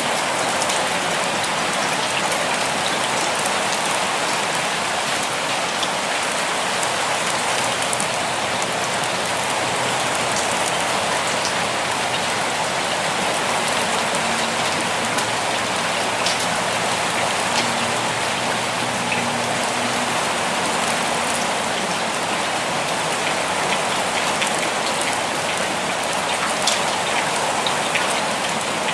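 Steady rainfall: an even hiss of rain on surfaces, with scattered individual drops ticking through it.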